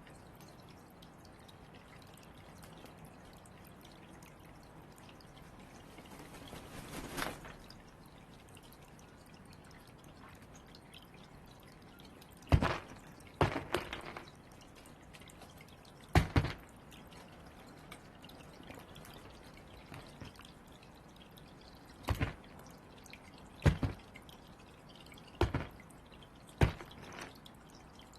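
A series of sharp, irregularly spaced knocks, some in quick pairs, from a crow pecking and hammering at a hard food ball. A brief swelling whoosh comes about a quarter of the way in, before the knocks start.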